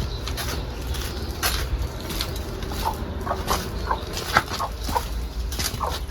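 Chickens clucking: a run of short, repeated calls through the second half, among scattered clicks and rustles.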